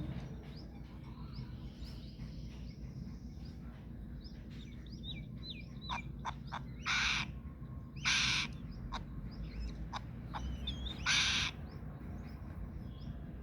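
Birds chirping and whistling in short notes throughout, with three loud, harsh hissing screeches about seven, eight and eleven seconds in.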